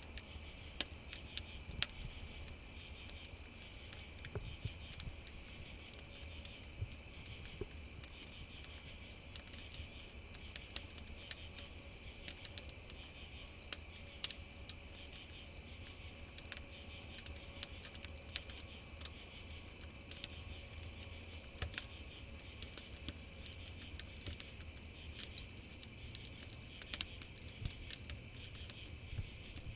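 Crickets chirring steadily with a wood campfire crackling throughout, its irregular sharp pops and snaps the loudest sounds.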